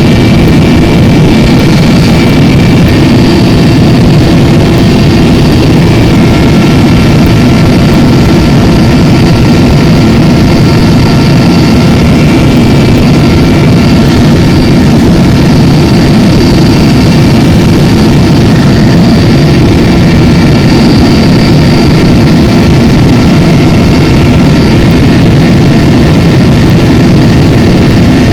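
Helicopter in flight heard from aboard: a loud, steady drone of engine and rotor, with thin steady whining tones above it.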